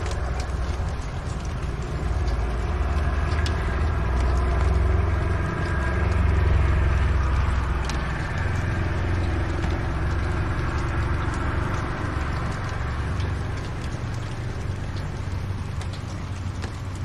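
Cat purring close up, a steady low rumble, with scattered small crackles from a wood fire.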